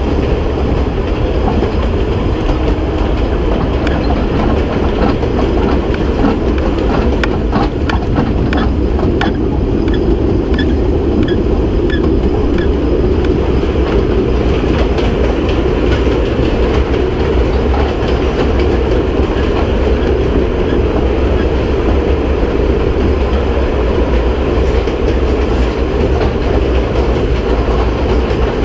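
Kurobe Gorge Railway narrow-gauge train running, heard from an open-sided carriage: a steady rumble of wheels on rails. A quick run of wheel clicks comes roughly a third of the way in.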